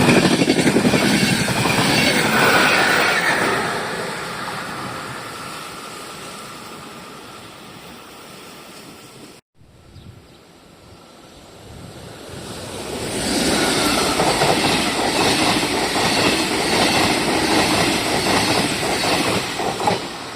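Trains passing on the railway. One goes by and fades away, then after a short break a second train passes close by, its wheels clattering in a steady rhythm over the rail joints.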